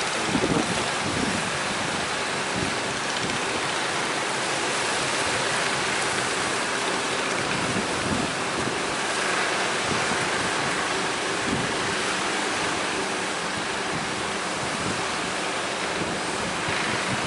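Sea waves and surf rushing in strong wind, with wind buffeting the microphone: a steady, even roar of noise.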